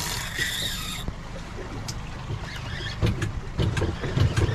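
Boat under way at trolling speed: the engine's steady low drone with water noise, a brief hiss in the first second, and irregular low thumps in the second half.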